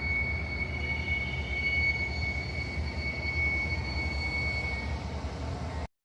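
A train rolling past with a steady low rumble and a high, steady wheel squeal. The sound cuts off suddenly near the end.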